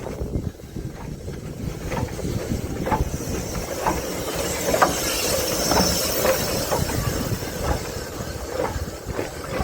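Steam train on the move: a steady low rumble with sharp clicks about once a second, the wheels going over rail joints, and a hiss of steam that swells in the middle.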